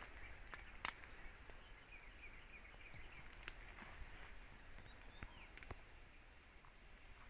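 Quiet outdoor ambience with scattered sharp clicks and crackles, the loudest about a second in, and faint quick bird chirps in the background.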